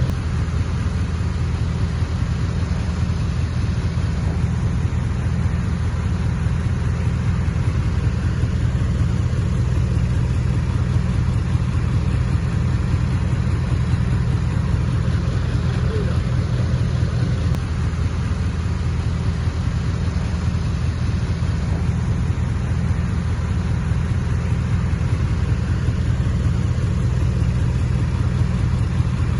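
Heavy earthmoving machine's diesel engine running steadily, a low drone that holds one pitch throughout.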